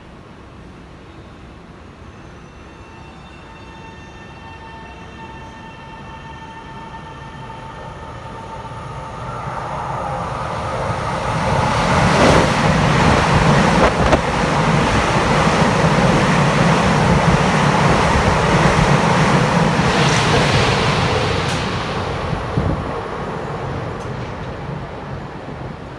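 Tze-Chiang express train passing through a station without stopping: a faint high whine at first, then the wheel and rail noise builds to a loud peak in the middle and fades as the train moves away, with a few sharp clicks at its loudest.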